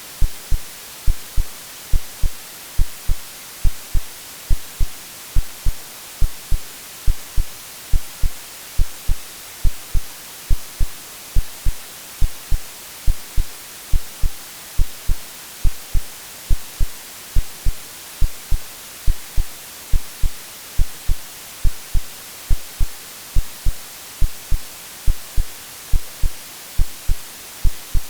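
Synthetic heartbeat over steady white noise: low, regular lub-dub thumps in close pairs, beneath an even hiss.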